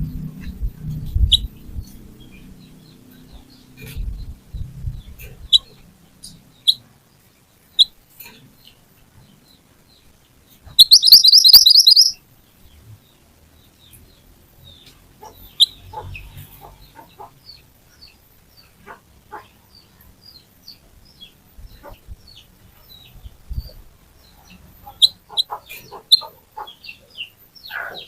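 Mantenan (kuniran) songbird calling: scattered short, high chirps, with one loud, rapid trill of about a second near the middle.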